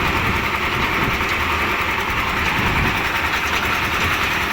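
Concrete mixer machine with lift attachment, its engine running steadily.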